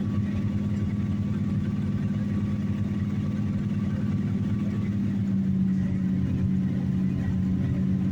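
1986 Dodge D-150 pickup's carbureted engine idling steadily just after a cold start in freezing weather without a choke, not yet warmed up. It gets a little louder about five and a half seconds in.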